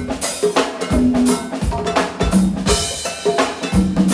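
Live band groove with no vocals: a drum kit and hand percussion keep a steady beat over held bass notes.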